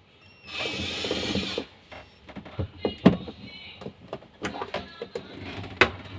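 Electric screwdriver running for about a second as it drives a screw, followed by a series of small clicks and knocks of parts and screws being handled.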